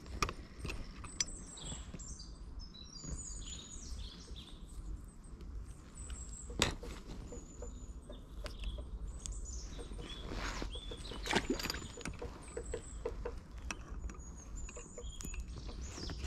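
Wild songbirds singing and chirping in short, high phrases over a steady low rumble, with a few sharp clicks scattered through.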